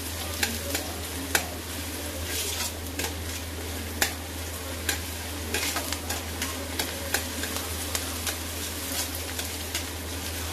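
Chopped onion, green chilli and ginger sizzling in hot oil in a kadhai while a spatula stirs them, with frequent sharp clicks and scrapes of the spatula against the pan. The onions are being sautéed to a light brown. A steady low hum runs underneath.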